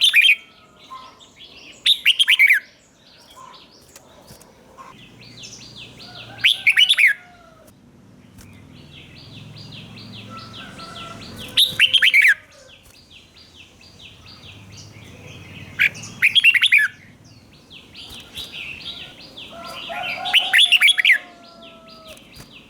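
Red-whiskered bulbul singing: six loud, short phrases spaced a few seconds apart. From about five seconds in, a fast, steady chattering trill runs between the phrases.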